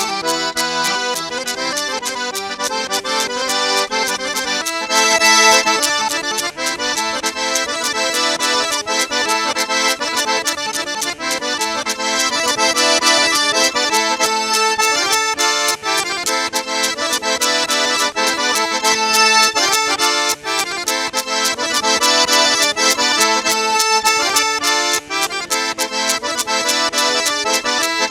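Fast traditional Nogay folk dance music with a quick, steady beat; it grows fuller and louder about five seconds in.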